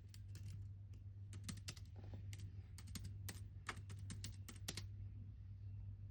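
Typing on a computer keyboard: a few keystrokes at the start, then a quick run of key clicks through the middle that stops about a second before the end, over a low steady hum.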